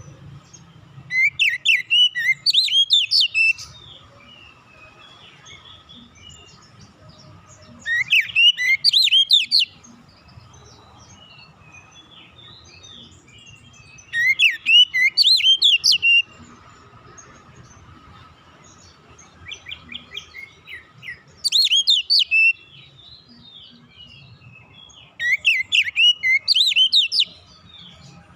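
Oriental magpie-robin (kacer) singing in five short bursts of fast, sliding whistled phrases a few seconds apart, the fourth starting softly before it swells. A faint steady tone and low hum run underneath.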